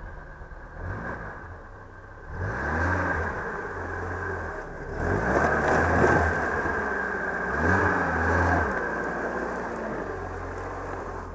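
Off-road 4x4's engine revving up and falling back several times as it pulls through rough going, with a louder rush of noise around the middle.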